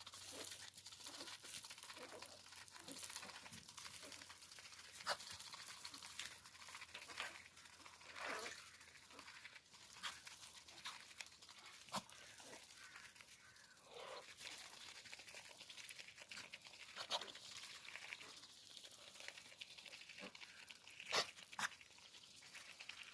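Poultry pecking and scratching about in straw: scattered faint rustles and clicks, with a few short calls.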